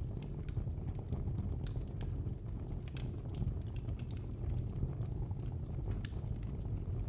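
Wood fire burning, with irregular crackles and pops over a steady low rush of flames.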